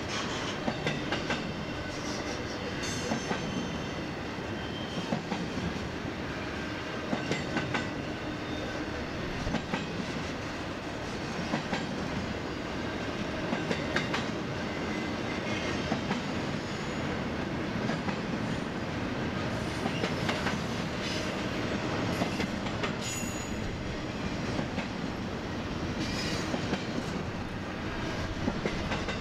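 Double-stack intermodal freight train rolling past: a steady rumble of well-car wheels with regular clicks over rail joints and a few brief high wheel squeals.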